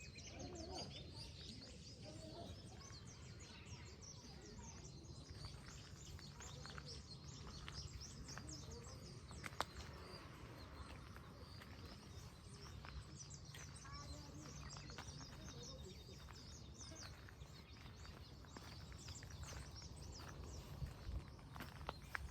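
Birds chirping faintly, many short high calls scattered throughout over a steady low background rumble, with a single sharp click about halfway through.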